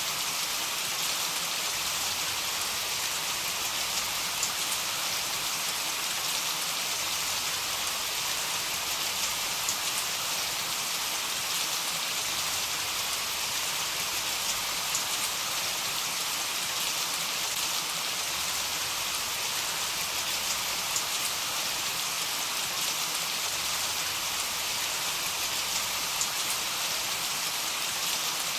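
Heavy rain falling steadily, a dense even hiss of drops with faint individual drop ticks and no thunder.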